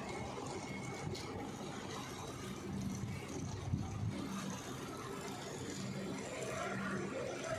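A steady low rumble with a faint hum, like an engine or passing vehicles.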